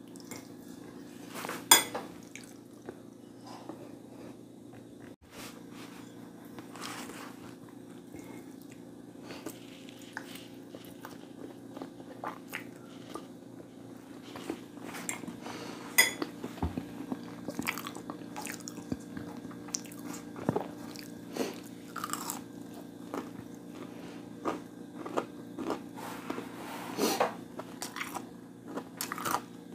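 A person eating close to the microphone, biting and chewing crunchy fried food, with irregular sharp crunches and mouth clicks. A steady low hum sits underneath.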